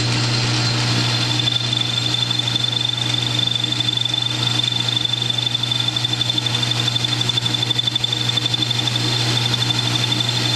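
South Bend metal lathe running under power, with a steady low motor hum; about a second in, a steady high-pitched whine joins it, typical of a cutting tool facing a turned part.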